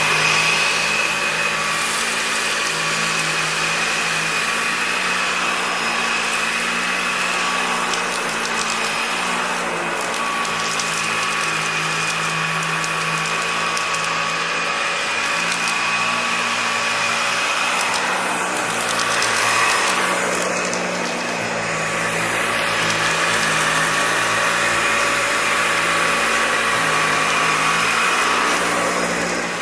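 2015 Dyson Allergy Ball upright vacuum cleaner running steadily as it is pushed over carpet picking up dirt: a constant high-pitched motor whine over a lower hum that shifts now and then as it moves.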